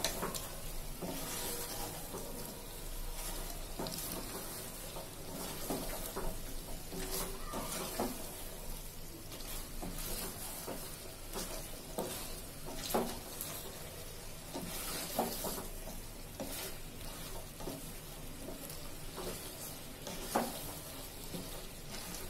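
Chicken pieces sizzling in oil and spice paste in an aluminium pot while being stir-fried down (kosha) with a wooden spatula, which scrapes and knocks against the pot at irregular intervals.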